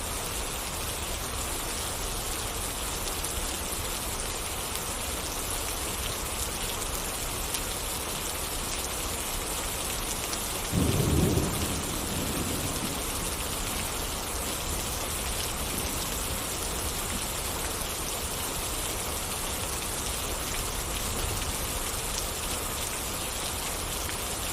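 Steady rain falling, with a short low rumble of thunder about eleven seconds in.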